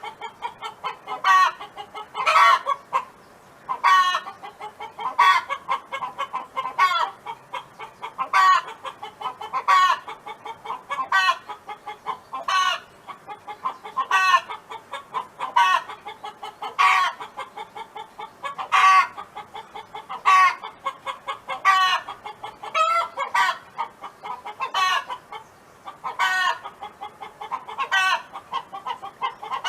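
A hen calling over and over: a loud call about every one and a half to two seconds, with quieter short clucks in between.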